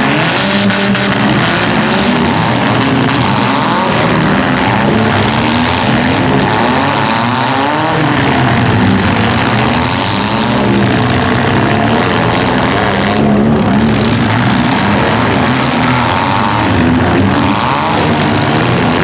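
Several compact demolition-derby cars' engines revving up and down together, loud and continuous, their pitches rising and falling over one another.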